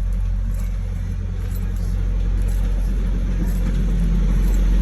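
Steady low rumble of a motor vehicle engine, growing slightly louder near the end.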